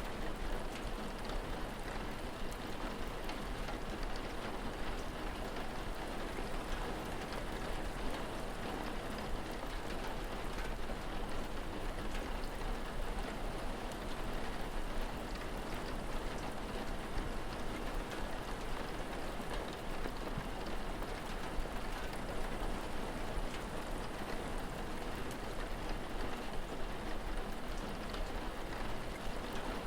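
Steady rain falling and pattering on surfaces, with many small drop taps.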